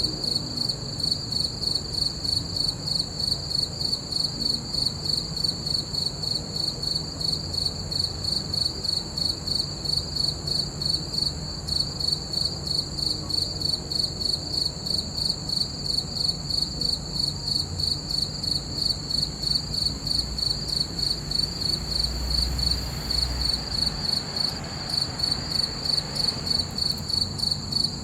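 Crickets chirping in a steady, even rhythm of about three pulses a second, with a brief low rumble about three-quarters of the way through.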